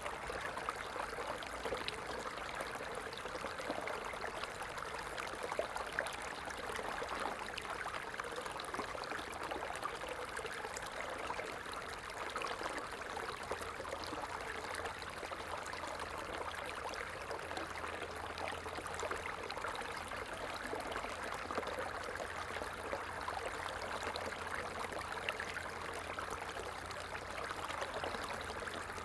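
A stream flowing with a steady, continuous babble and trickle of water.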